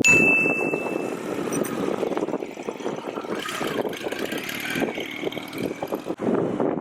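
Motorcycle engine running with an uneven, fluttering note. A short high beep sounds at the very start.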